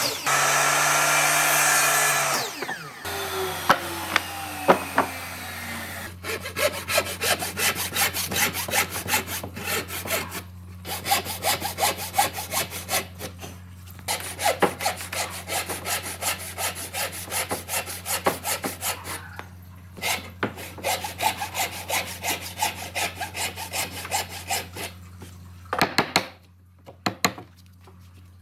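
A power tool running that cuts off about two seconds in and winds down. Then long runs of rapid back-and-forth strokes of a hand tool rasping over wood, with a few short pauses and a low steady hum underneath.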